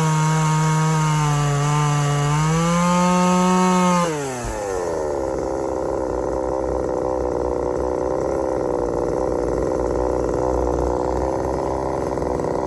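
Exhaust-ported Craftsman 2.2 36cc two-stroke chainsaw running at full throttle in a cut, its pitch wavering under load. About four seconds in it is let off and the pitch falls quickly to a steady idle.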